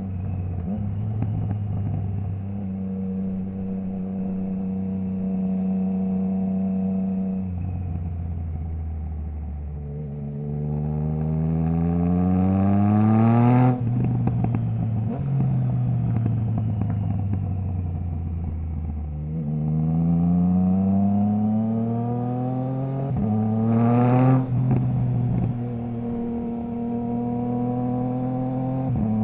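Triumph Trident 660's inline three-cylinder engine through a Zard stainless full exhaust with the baffle removed, ridden on the road. It cruises steadily at first, then the revs climb hard twice, each pull cut off suddenly, with the revs falling away on the overrun between them.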